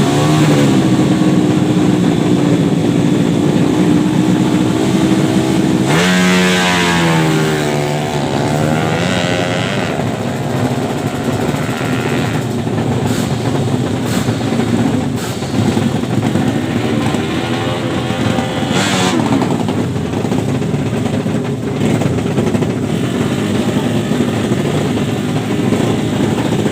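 Small drag-bike motorcycle engines running hard: one holds a steady high rev, then about six seconds in a louder bike comes in with its pitch falling over about two seconds. Further revving swells follow.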